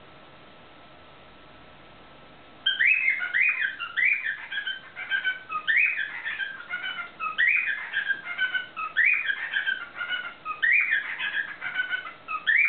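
Male cockatiel singing: a string of loud whistled phrases, each a quick rising-then-falling note, repeated over and over. It starts suddenly nearly three seconds in and is the bird's victory song after a beak-rattling territorial dispute over the play gym.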